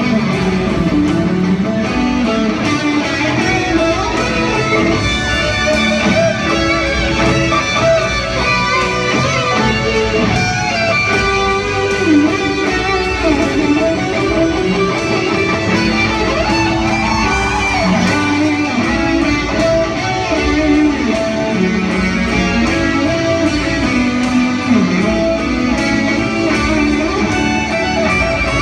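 Live rock band playing an instrumental passage, led by an electric guitar melody with bending notes over a strummed guitar, bass and drums.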